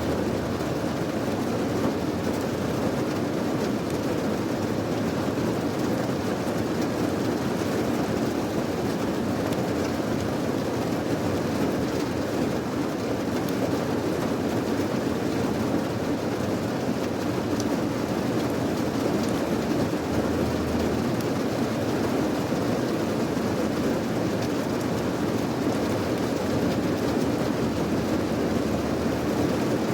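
Steady rain falling, an even unbroken rush with no changes or distinct drops standing out.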